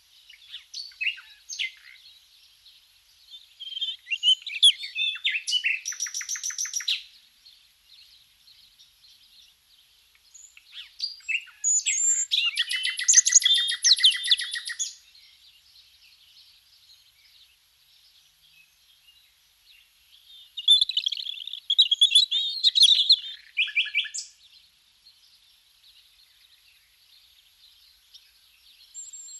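A songbird singing three long, varied phrases of high chirps and warbles, each with a fast rattling trill, separated by pauses of several seconds filled with softer chirps.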